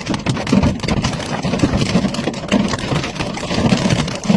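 Heavy rain and hail drumming on a vehicle: a dense, irregular rattle of impacts.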